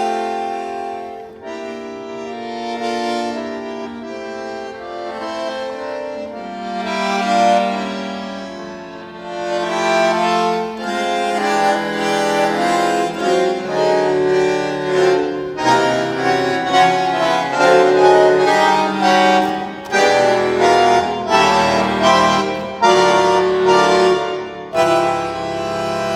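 Solo bandoneon playing a cadenza: slow, held chords at first, then from about ten seconds in, louder short accented chords in a quick, uneven rhythm.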